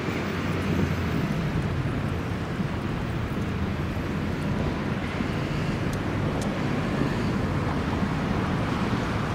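Steady low rumble over a city railway: trains approaching in the distance over road traffic, with some wind on the microphone.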